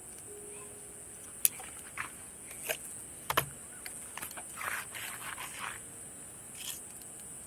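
Summer night insects keep up a steady, high-pitched trilling chorus. Over it come scattered sharp clicks, a dull knock about three seconds in and a short scraping rustle, the small noises of things being handled at the campsite.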